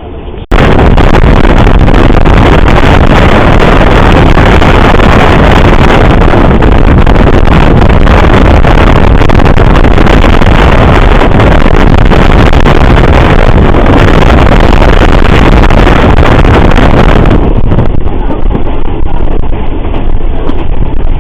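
Loud, steady wind and running noise from a moving vehicle, close on the microphone. It starts abruptly about half a second in and becomes somewhat duller and quieter near the end.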